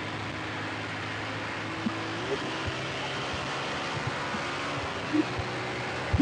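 Motorcycle running on the move, a steady engine hum under a constant rush of wind on the microphone, with a brief rising tone about two seconds in. A few short thumps come through, the loudest near the end.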